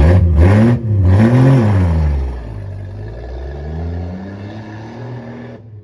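Car engine revved twice, then settling back to a steadier, lower run before cutting off abruptly.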